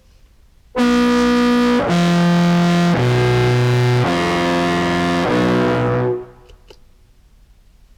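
Contrabass clarinet played through an octave pedal set two octaves down into a fuzz pedal: a phrase of about five held, raspy, distorted notes that begins just under a second in and dies away about six seconds in.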